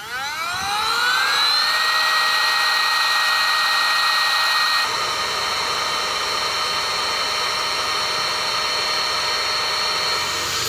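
A small electric motor spins up, rising quickly in pitch over the first couple of seconds, then runs at a steady high whir.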